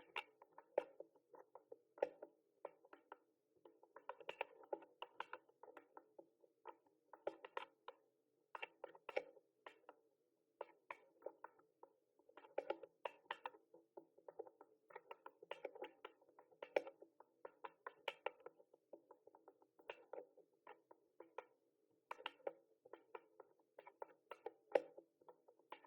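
Typing on a mechanical keyboard: quiet, irregular runs of key clicks with short pauses between bursts.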